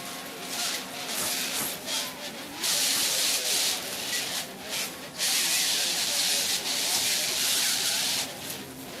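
Loud hissing noise that switches on and off in long stretches of a second or more.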